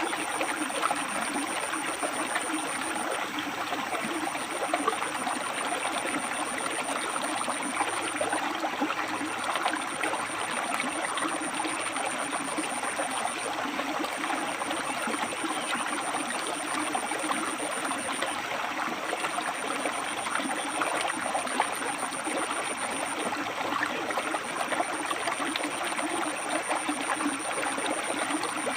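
A river flowing and splashing over rocks: a steady rush of running water with trickling. A faint thin high tone comes and goes in spells of about four seconds.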